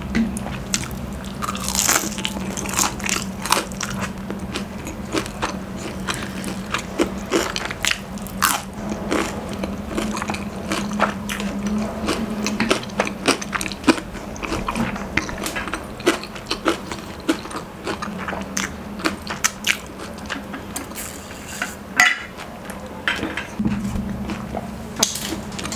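Biting and chewing crispy fried chicken, with many sharp, irregular crunches of the breading throughout.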